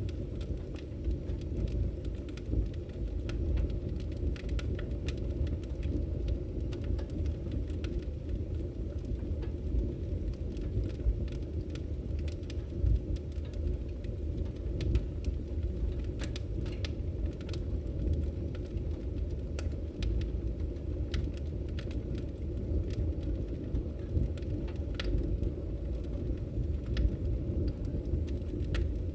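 Wood fire crackling in a fireplace: a steady low rumble of the flames with scattered sharp pops and crackles.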